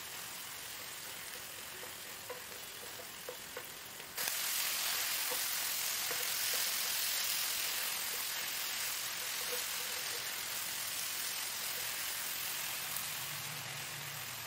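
Onions and green capsicum frying in a masala in a non-stick pan, a steady sizzle with a few light taps of a wooden spatula as it is stirred. The sizzle gets suddenly louder about four seconds in.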